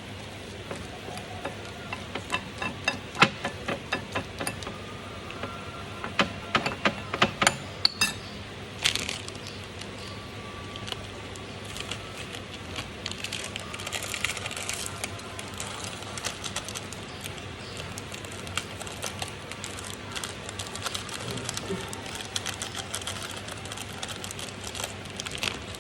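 Kitchen handling sounds while instant noodles are being prepared. A quick run of sharp clicks and taps comes during the first eight seconds or so, then softer scraping and rustling follows.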